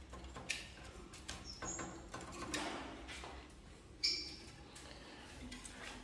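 Caged songbirds giving two short, high chirps, about a second and a half in and again about four seconds in, among a few faint clicks and knocks.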